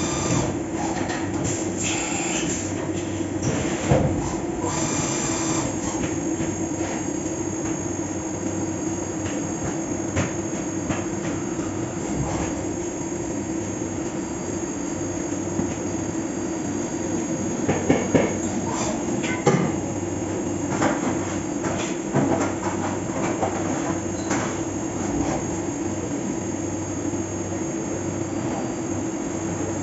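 5-axis CNC milling machine cutting metal: a steady spindle and cutter tone under a hiss of machining noise, with scattered sharp clicks and scrapes of chips hitting the guarding, a few louder ones about 4 s in and again around 18 to 20 s.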